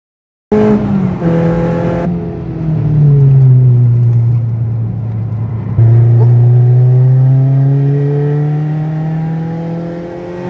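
Old racing car's engine running at speed, its pitch falling over the first few seconds, then after an abrupt change about six seconds in, climbing steadily as it accelerates.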